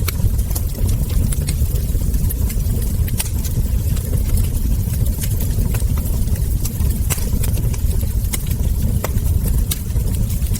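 Log fire crackling, with frequent small sharp pops at irregular intervals over a steady low rumble.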